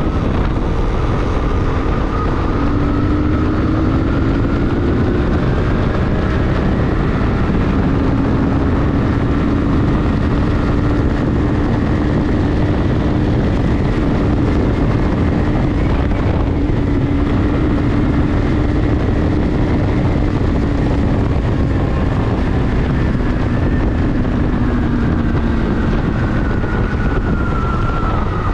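Ventó Alpina 300 motorcycle engine running at a steady cruise on a ride, its pitch drifting slowly up and down with no sharp revs, over a constant rush of wind and road noise.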